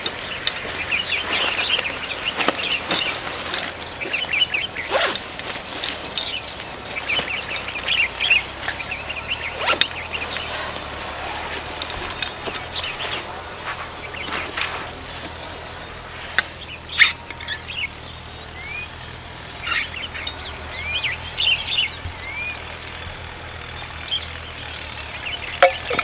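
Small birds chirping and twittering in quick runs, with a few short upward-sweeping calls in the second half, over a steady low background rumble. Scattered short clicks and knocks come through now and then.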